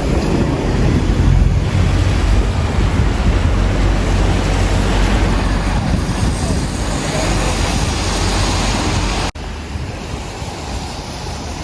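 Wind buffeting the microphone, a loud, steady rushing rumble. About nine seconds in it cuts off abruptly and resumes at a lower level.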